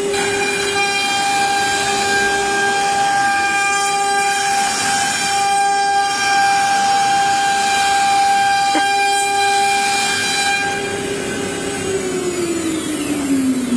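HSD electro-spindle of a heavy-duty CNC machining center whining at a steady high pitch over a rushing hiss. Near the end the pitch falls steadily as the spindle winds down.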